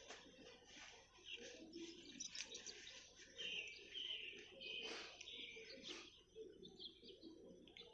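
Faint birds chirping and calling in forest ambience, with short high chirps repeating throughout.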